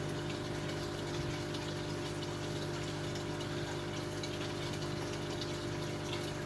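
Aquarium filtration running: a steady pump hum with water trickling and splashing through the sump system.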